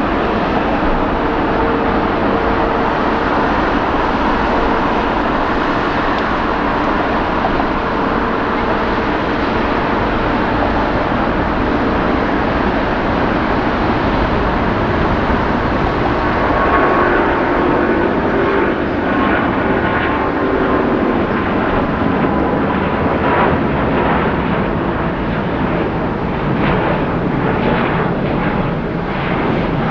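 Jet airliner engines heard close by: a loud, steady rushing noise with faint engine whine tones, growing rougher in the last few seconds.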